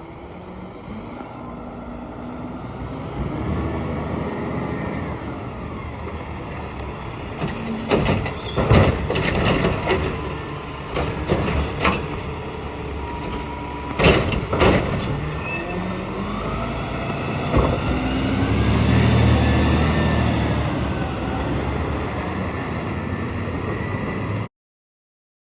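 Side-loader garbage truck running, with a high brake squeal about a quarter of the way in and several sharp bangs about a third and halfway through, including a hiss that is typical of air brakes. The engine grows louder for a couple of seconds near the end.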